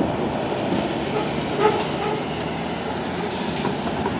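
A train rolling away after clearing a grade crossing: a steady rumble of wheels on rail.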